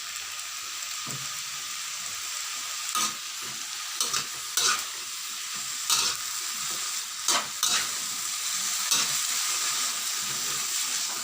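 Pickled bamboo shoots and vegetables sizzling in hot oil in a pan as they are stir-fried, with a spatula scraping and tossing them in short strokes about once a second.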